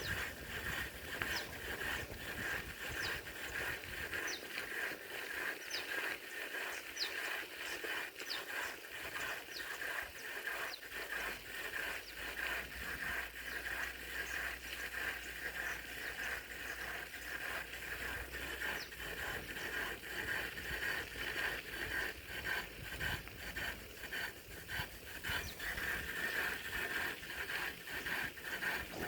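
Rainy forest ambience: steady pattering with a constant high hum, and a run of short, high, falling bird chirps over roughly the first ten seconds.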